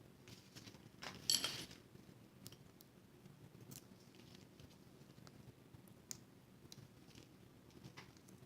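Small handling sounds of paper-craft work on a tabletop: one brief scratchy paper sound about a second in, then scattered light clicks and taps.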